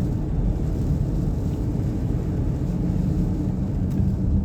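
Steady road and engine rumble inside the cabin of a Nissan Pathfinder being driven on the highway.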